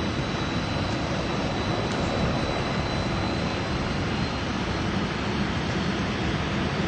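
Boeing 747's four jet engines running at takeoff power, a steady roar with a faint high whine that fades over the first few seconds.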